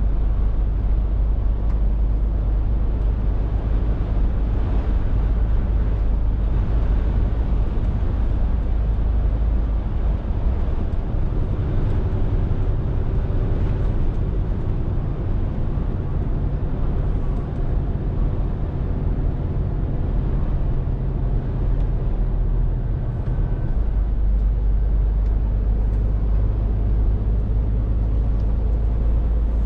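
Scania R450 lorry's six-cylinder diesel engine running steadily while driving. About a third of the way in the engine note rises to a higher pitch, holds there, and drops back to the deeper drone near the end.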